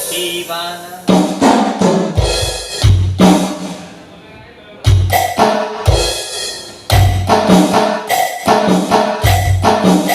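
Roland SPD-11 electronic percussion pad played through a stage PA system, triggering drum and percussion sounds in short phrases of sharp hits, several with deep bass thumps and some with pitched, ringing tones.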